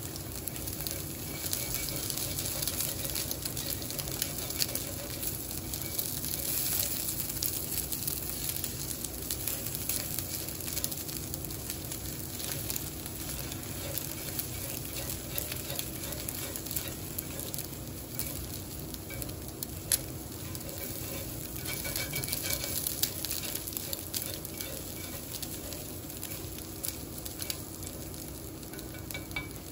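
Food frying in a pan: a steady sizzle with dense, fine crackling.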